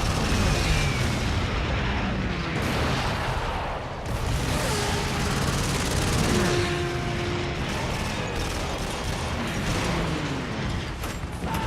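Dense battle sound: booming explosions and gunfire over a constant rumble, with several falling whines.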